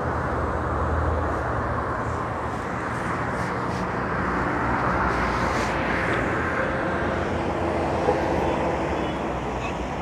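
Steady road traffic: cars running past with a continuous low engine hum.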